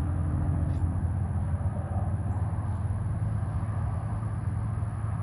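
Steady low rumble with a few brief, faint high chirps.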